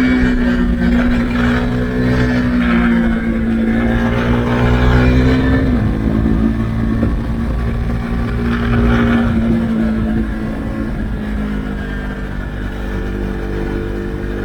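Husqvarna Svartpilen 401's single-cylinder engine running through an Akrapovic exhaust with the dB-killer removed, at fairly steady revs under way. There is a brief break and shift in pitch about six seconds in, and the revs ease slightly lower near the end.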